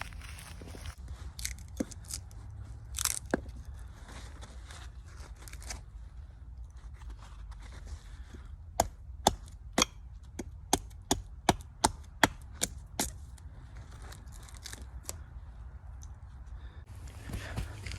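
Dry wood cracking and snapping: a few scattered sharp cracks, then a quick run of about a dozen in the middle, over a steady low rumble.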